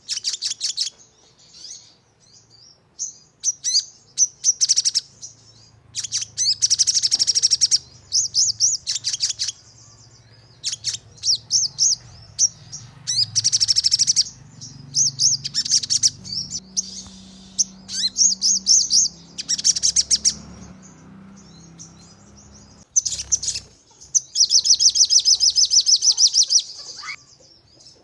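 Sogon singing in repeated bouts of rapid, high-pitched trills and chirps, with a long fast trill near the end the loudest: the 'nembak' rapid-fire song that keepers play as lure audio to provoke a caged sogon.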